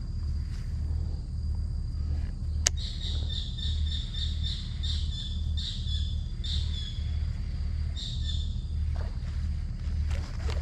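A bird calling a quick run of high chirps, about three a second, for several seconds, with a few more near the end. A single sharp click comes just before the calls start, and a steady low background noise runs underneath.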